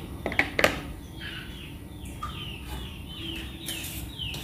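Bird chirping: a run of short, falling chirps repeated every half second or so. Two or three sharp knocks sound about half a second in.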